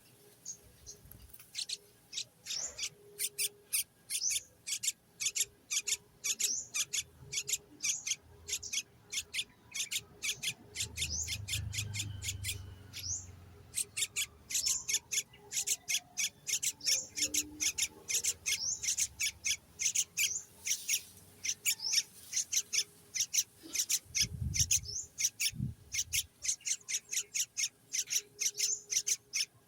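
Baby bird's high-pitched begging calls at the nest: short, rasping cheeps repeated several times a second, with a brief pause about 13 seconds in. A low rumble sounds around 12 seconds in, and two dull thumps come near the end.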